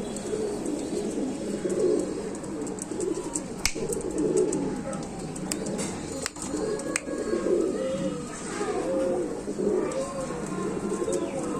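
Roller pigeons cooing, several overlapping coos in a steady run, with a few sharp clicks in between.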